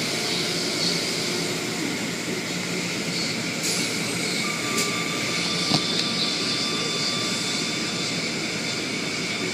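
Automatic car wash machinery running: a steady rushing noise, with a faint steady high whine coming in about halfway through.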